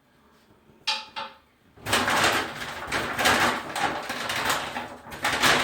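Rattling and scraping of a bathroom exhaust vent and its damper flap being handled, a dense, uneven clatter that starts about two seconds in after a short knock about a second in.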